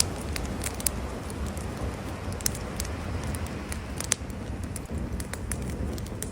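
Wood campfire crackling, with irregular sharp pops, the loudest about four seconds in, over a steady low rushing noise.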